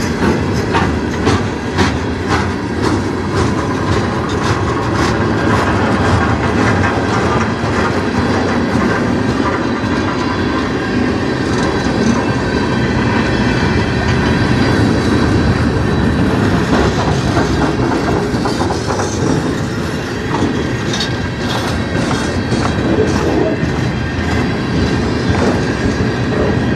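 Freight cars of a manifest train rolling past at close range: steel wheels running on the rails with a steady rumble and repeated clicking over the rail joints, and a faint high wheel squeal now and then.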